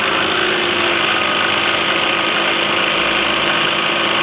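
Hydraulic power unit running steadily, driving the field riveter as it presses a pin in.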